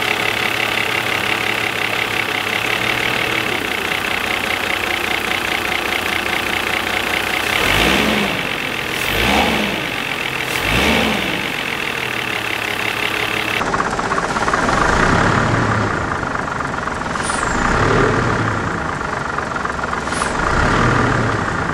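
1995 Mercedes C36 AMG's 3.6-litre straight-six idling, then briefly brake-torqued in gear several times, the engine note rising and falling with each pull. This is a load test of freshly fitted polyurethane engine mounts.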